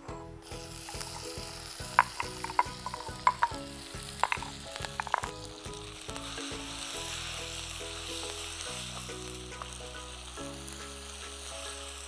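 Crushed tomatoes sizzling as they go into hot oil with onions, garlic and dried red chillies in a clay pot. A spoon knocks and scrapes against the clay pot for a few seconds as they are stirred, then the frying settles to a steady sizzle.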